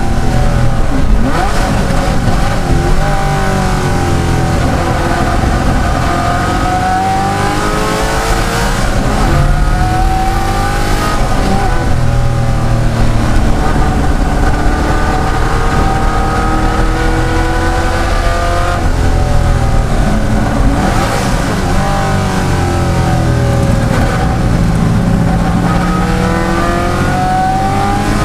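De Tomaso Pantera's Ford V8 racing hard, its note climbing through the revs and dropping at each gear change, again and again.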